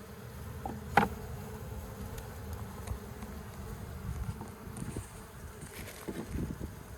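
Swarm of honeybees buzzing steadily around an opened hive, with one sharp knock about a second in.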